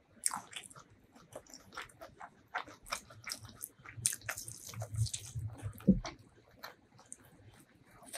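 Close-miked eating sounds from spicy duck curry and rice eaten by hand: wet chewing, lip smacks and soft squishing of rice and meat, as a string of short clicks and crackles. A louder thump comes about six seconds in.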